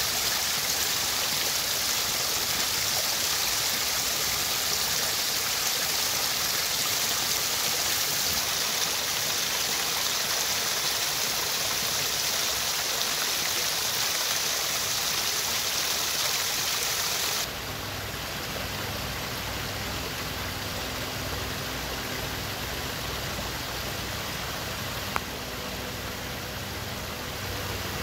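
Running water from a stream rushing steadily, with a bright hiss. About two thirds of the way in it cuts abruptly to a quieter low rumble with faint steady tones and a single sharp click.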